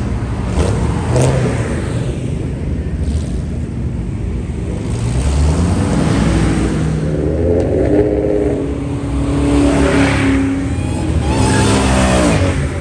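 Mustang engines revving and accelerating as cars pull away, loud and rising in pitch several times, with a second rise about halfway through and another near the end.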